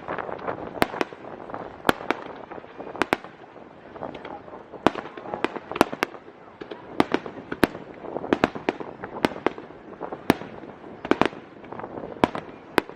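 Aerial fireworks display: many sharp bursts and cracks at uneven spacing, several a second, over a continuous rumble of shells and crackle.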